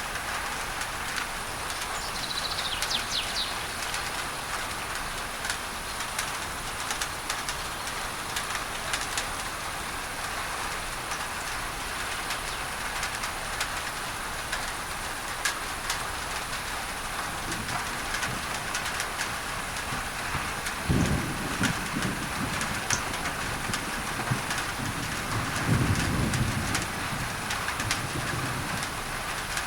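Steady rain on a tin roof under an even layer of masking noise, with a short bird call near the start and two low rumbles of thunder in the last third.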